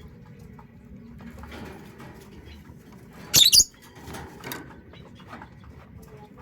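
Puter pelung dove flapping its wings in one short, loud flurry about halfway through, with faint rustling before and after.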